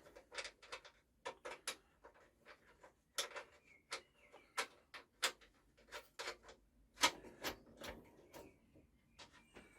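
Irregular metal clicks and light taps of hand tools and hardware as a mower's wheel nut is fitted and tightened, a dozen or more over several seconds.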